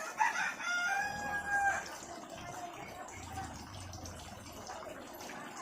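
Rooster crowing once near the start: a single long crow of under two seconds. Quieter farmyard background follows.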